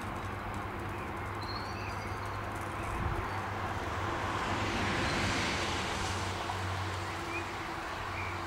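A vehicle passing: a rushing noise that swells to a peak about halfway through and fades again, over a steady low hum, with a few short bird chirps.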